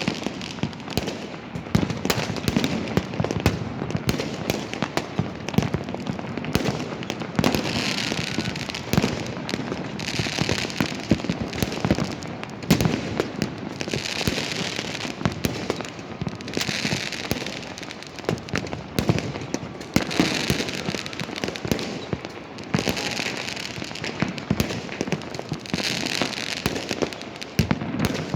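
Fireworks and firecrackers going off without pause, a dense stream of overlapping bangs and pops. Hissing stretches of a second or two recur every few seconds.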